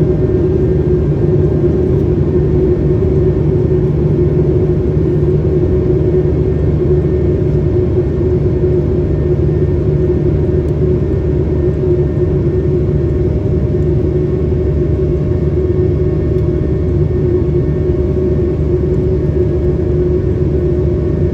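Steady drone inside the cabin of an Airbus A220-300 airliner, its Pratt & Whitney PW1500G geared turbofan engines running, with a steady hum over a low rumble.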